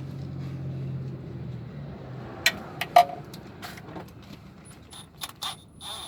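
A steady low hum that fades out about two seconds in, then a series of sharp metallic clinks at irregular intervals: hand tools and loose bolts being handled while oil pan bolts are removed.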